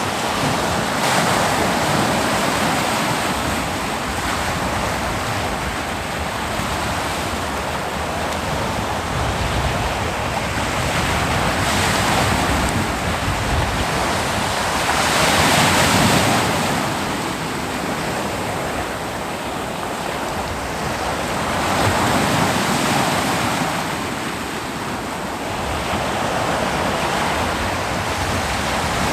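Ocean waves breaking on a beach, a steady wash of surf that swells with each wave, the biggest about halfway through and another near three-quarters of the way in.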